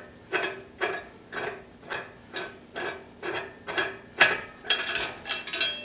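Hand-worked lifting gear being operated in steady strokes, about two a second, as a lathe is raised off its rollers, with a few louder metal clanks about four seconds in.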